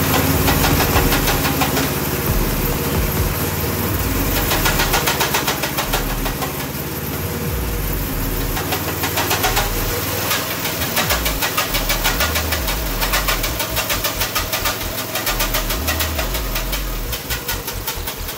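Predator 212 single-cylinder four-stroke engine running on a go-kart drivetrain, its speed rising and falling, with the drive chain slapping noisily.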